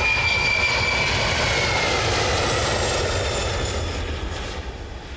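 Jet airliner's engines: a steady roar with a high whine that drifts slowly lower in pitch, fading away near the end.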